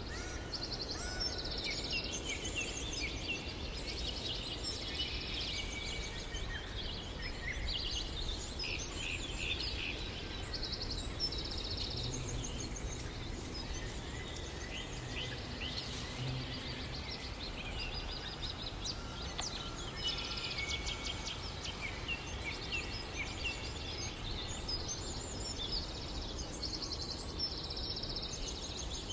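Several birds singing and calling at once: a dense, continuous chorus of rapid high trills and short chirps, over a steady low rumble.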